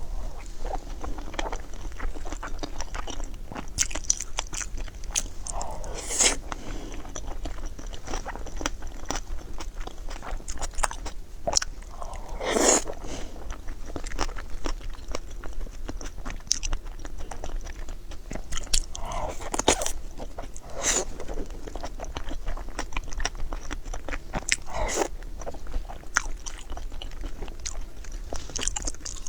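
Close-miked eating: crunchy bites and steady chewing, a dense run of small crackles with a few louder bites scattered through.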